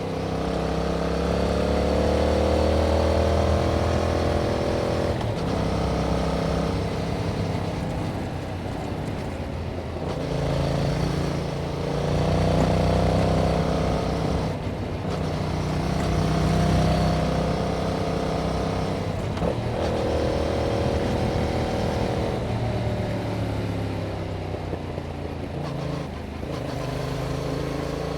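2021 Yamaha MT-07's 689 cc parallel-twin engine through its original exhaust, ridden on the road: the engine note rises and falls several times as the rider opens and eases the throttle, with short breaks in the note about every five seconds.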